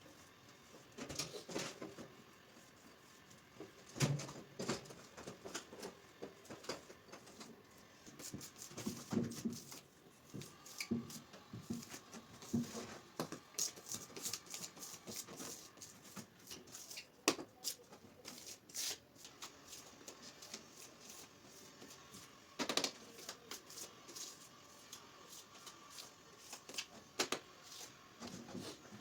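Hand tools scraping and knocking on ceramic tile while grouting, in irregular short scrapes and sharp clicks.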